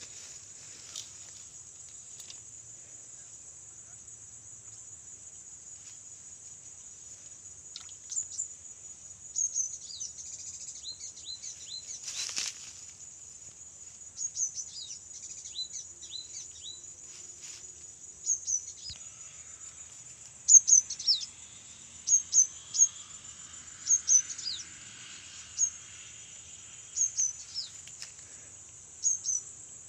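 A steady high-pitched insect drone runs throughout, with a bird calling over it in short, sharp falling chirps, sparse at first and coming in quick runs of two or three in the second half, where they are the loudest sound. A single brief click sounds near the middle.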